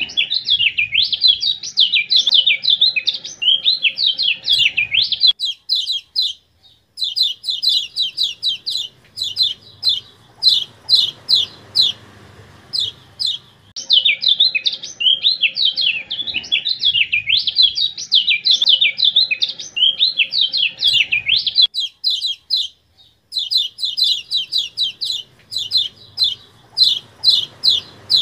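Kecial kuning (a white-eye songbird) singing loud, high-pitched song as a looped training recording. Fast rambling twitter phrases alternate with runs of sharp, rapid 'ciak' chips, with two short pauses between passages.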